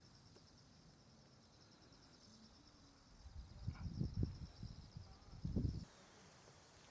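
A faint, high insect trill of rapid even pulses that stops near the end. Low gusts of wind buffet the microphone between about three and six seconds in.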